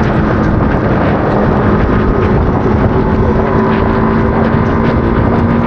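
Motorcycle running at a steady speed while riding, its engine note held level, with wind rushing over the microphone.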